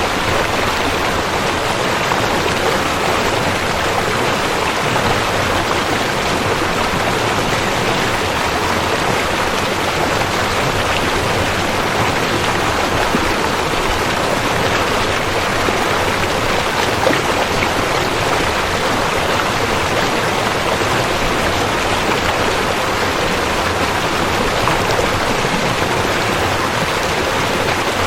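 River water flowing, a steady, even rush of water that does not change.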